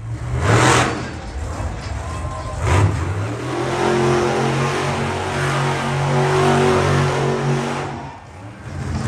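Monster truck engine revving and then holding a steady drone for a few seconds, with brief loud bursts of noise near the start and about three seconds in.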